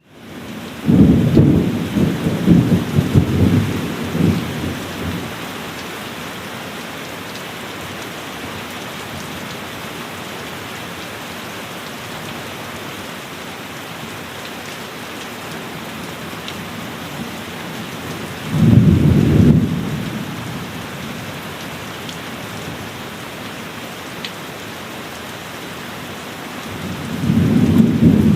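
Steady heavy rain, with thunder rumbling three times: a long rolling peal about a second in, another shorter clap just past the middle, and a third building near the end.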